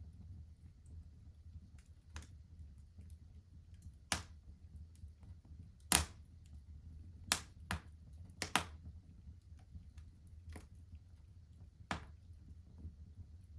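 Wood fire crackling in a fireplace: scattered sharp pops and snaps, about eight in all and the loudest about six seconds in, over a low steady rumble of the burning.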